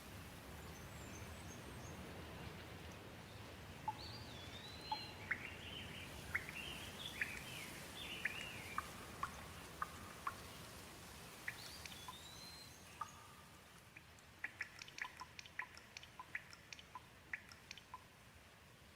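Gentle rain falling steadily with a songbird calling over it: a run of short whistled sweeps and chirps from about four seconds in, then a quick series of sharp ticking notes near the end as the rain softens.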